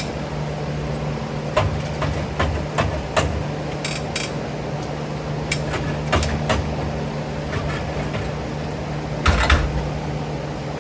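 A series of light knocks and clanks over a steady low hum, with a louder double clank about nine and a half seconds in.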